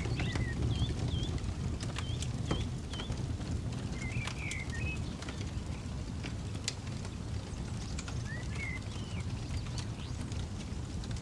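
Campfire crackling, with scattered sharp pops over a steady low rumble. Birds chirp in short, high, curling notes every second or two.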